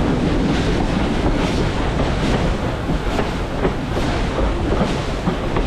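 Train rolling along the track: a steady rumble with scattered, irregular clacks from the wheels and cars.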